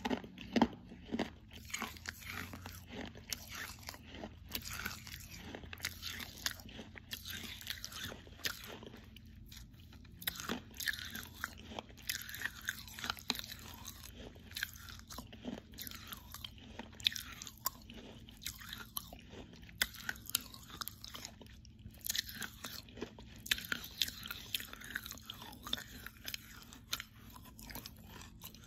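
A person biting and chewing crunchy edible clay: a steady run of irregular, crisp crunches.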